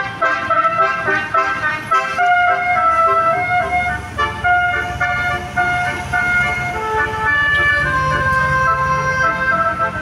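Multi-tone musical bus horn ("telolet" horn) playing a tune of held, overlapping notes that change pitch, over a bus engine's low running.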